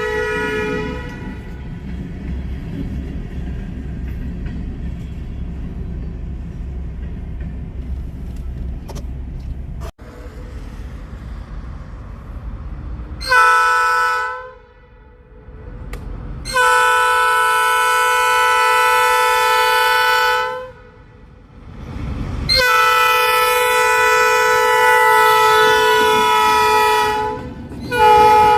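Locomotive horn sounding a chord of several tones: a blast fades out about a second in, then after a stretch of steady engine rumble it blows one short blast, two long blasts of about four seconds each, and another short one near the end.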